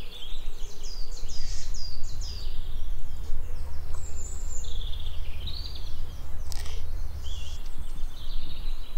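Small birds chirping in short, high, falling notes, repeated in little runs, over a steady low outdoor rumble.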